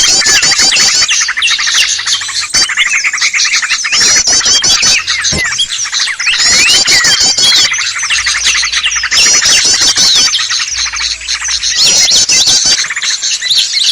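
Dense, loud chorus of many small birds chirping and twittering over one another, a bird-lure (pikat) recording meant to draw in small birds. Bursts of rapid high trills come back every second or two.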